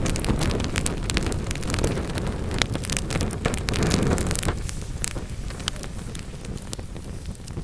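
Wood fire burning in a fireplace: frequent sharp crackles and pops from the logs over a low rumble of flame, the rumble easing off a little past halfway.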